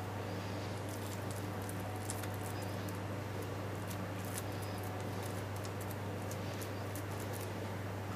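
A spoon dabbing and scraping sticky sausage-meat mix onto puff pastry, making faint soft clicks and squelches, over a steady low hum.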